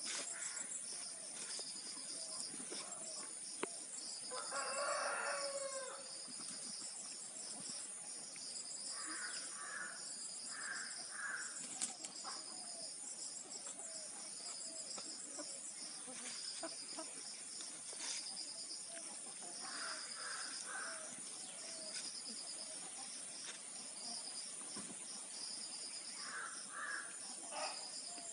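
A rooster crows once about four seconds in, a single call lasting about two seconds. Short calls in groups of three recur several times, over a steady high chorus of insects.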